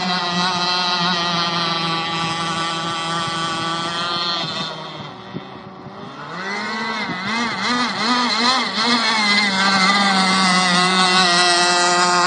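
Radio-controlled racing boat running on the water, its motor a loud, steady pitched whine. About five seconds in it fades briefly, then comes back with a wavering pitch for a couple of seconds before running steady again.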